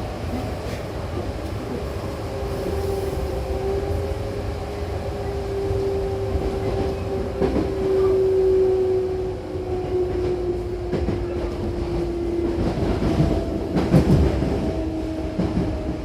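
Hankyu Kyoto Line electric train running, its motor whine slowly falling in pitch as the train slows, over a steady rumble, with a few clacks of the wheels over rail joints in the second half.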